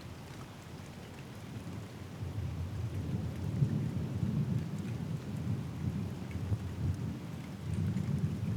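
Steady rain with a deep rumble of thunder that builds about two seconds in, rolls on for several seconds and swells again near the end.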